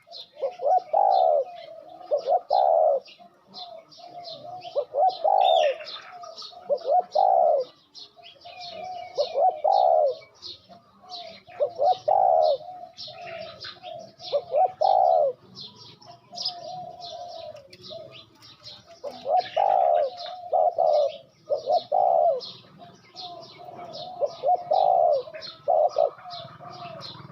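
Dove cooing over and over in short phrases, one every second or two, the cooing call that Thai keepers call 'khan'. High, rapid chirps of small birds run underneath.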